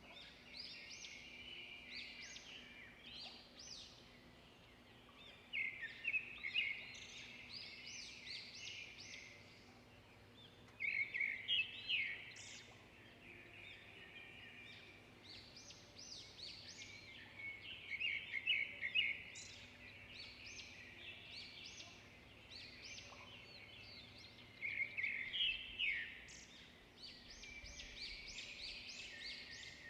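Songbirds singing: bursts of rapid, high chirps and trills that recur every five or six seconds.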